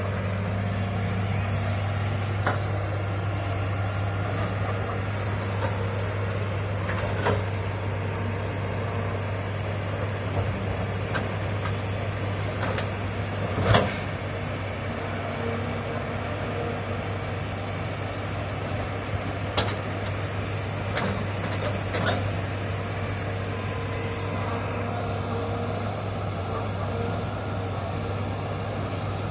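Hitachi hydraulic excavator's diesel engine running steadily, with a few sharp knocks scattered through, the loudest about fourteen seconds in.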